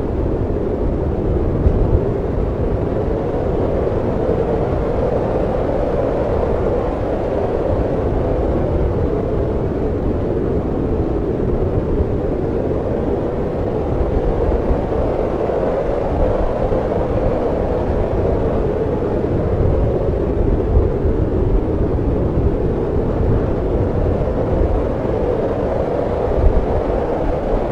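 Snowstorm wind blowing steadily, a deep even rushing noise with small swells and no break.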